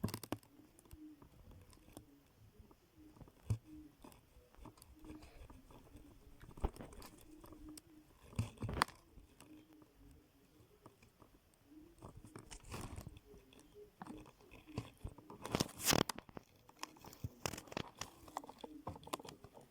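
Crunchy chewing and biting in irregular bouts, with the loudest crunches about nine and sixteen seconds in.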